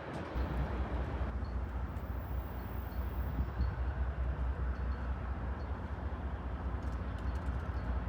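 Freight train rolling past: a steady low rumble under a constant wash of rail and car noise.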